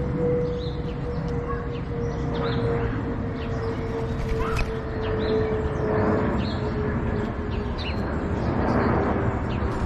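Small birds chirping, with many short, high chirps scattered throughout. Underneath runs a constant low rumble and a steady hum that slowly drops in pitch.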